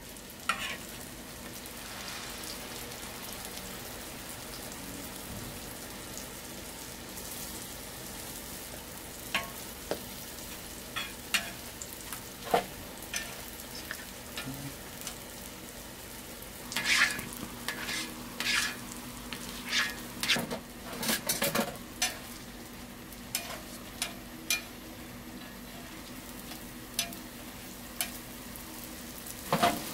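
Hotteok (Korean sweet pancakes) frying in a tray of hot oil, a steady sizzle. Sharp clicks of metal tongs against the pancakes and the tray cut in from about a third of the way in, most of them in the second half.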